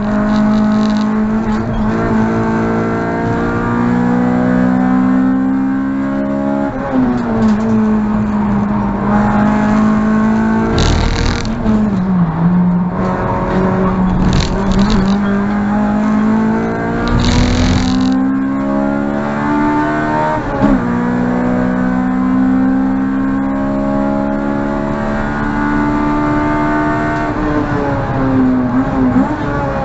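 Honda Civic EG6's B16A 1.6-litre four-cylinder engine at high revs under hard acceleration on a race lap. Its pitch climbs steadily and drops sharply at gear changes about 7 and 21 seconds in. There are three short noisy rushes around 11, 14 and 17 seconds in.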